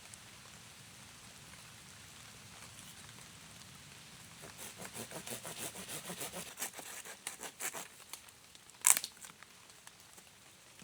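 Wood being worked by hand: a quick run of crackles and rustles, as of twigs or bark being snapped and stripped, for about four seconds, then one sharp knock near the end.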